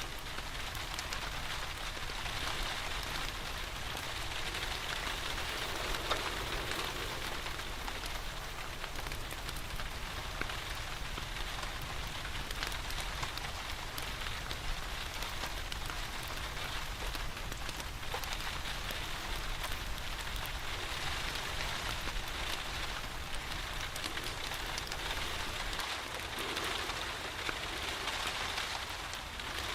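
Steady rain falling, with an occasional sharp crackle from a wood fire in a fireplace.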